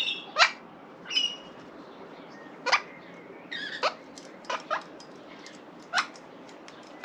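Australian king parrot giving short, sharp calls that each drop quickly in pitch, about seven of them at uneven intervals.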